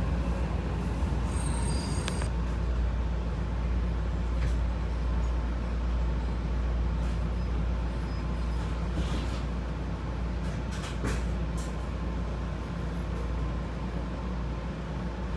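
JR Shikoku 7200 series electric train running, a steady low rumble of wheels on the rails with a few faint clicks along the way.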